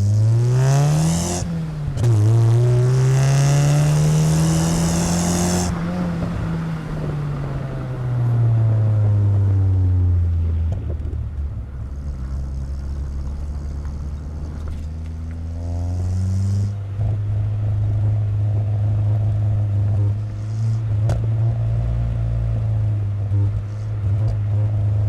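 Exhaust of a 1997 Chevrolet Corsa Wind 1.0 MPFI fitted with a JK muffler, heard close to the tailpipe while driving. The revs climb, drop at a gear change about a second and a half in, climb again, then fall away as the car eases off; after a short rise midway the engine settles into a steady cruise.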